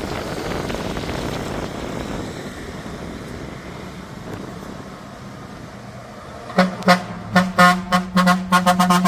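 Vehicle engine and road noise that fades, then, from about six and a half seconds in, a truck's horn sounding in a rapid series of short toots, two to three a second.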